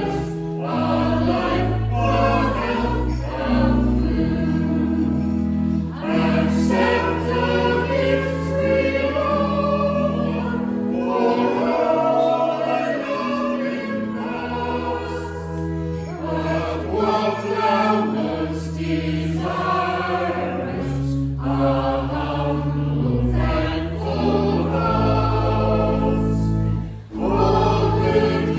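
Choir and congregation singing a hymn, accompanied by a church organ holding sustained low notes. The singing breaks off briefly near the end before going on.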